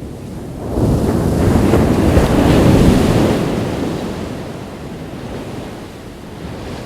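Ocean wave breaking on a beach: the surf swells in under a second in, peaks and then washes out and fades over the following few seconds, with wind buffeting the microphone.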